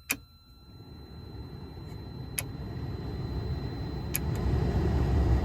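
A 1984 Mazda RX-7's heater blower fan being switched up through its speeds. Three clicks of the fan switch come about two seconds apart, and the rush of air grows steadily louder.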